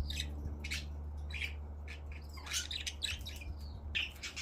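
Budgerigars chirping and chattering: many short, high, squeaky calls in quick irregular succession.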